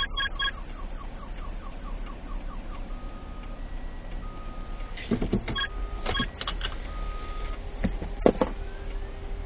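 Car alarm cycling through its tones: rapid pulsed beeping that stops about half a second in, then a run of falling chirps, then short steady tones, over a steady hum of street traffic. A few sharp knocks are heard near the middle and again near the end.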